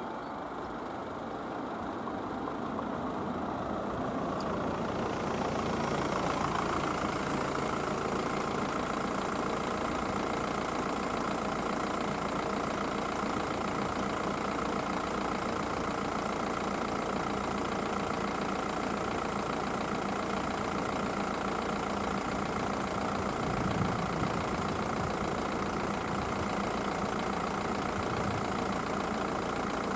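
Car engine idling close by, growing louder over the first few seconds and then running steadily.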